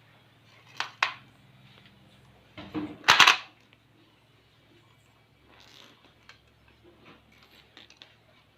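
Handling noise of hard objects: two sharp clicks about a second in, a louder clatter about three seconds in, then faint scattered ticks, over a low steady hum.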